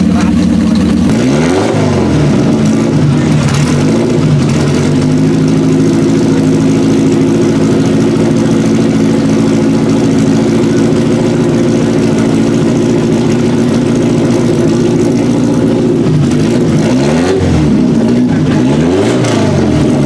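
Historic car's engine idling loudly, blipped on the throttle so the revs rise and fall quickly about two seconds in, again around four seconds, and several times near the end.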